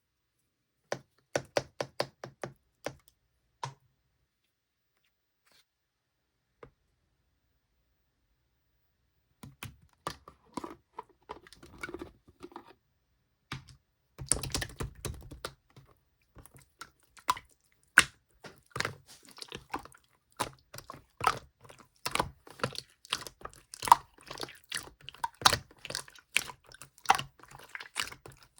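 Sky-blue translucent slime being squeezed and poked by hand, making sharp wet clicks and pops. A handful of separate clicks in the first few seconds, then several seconds of near silence, then clicks that build into dense, rapid popping and crackling for the second half.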